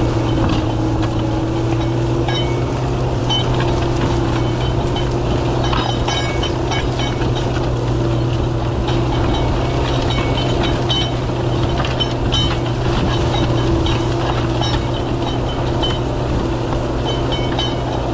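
Fiatagri 140-90 DT Turbo tractor's turbocharged diesel engine running steadily under plowing load: a constant drone with a steady hum above it, and light metallic rattles and clicks that come and go.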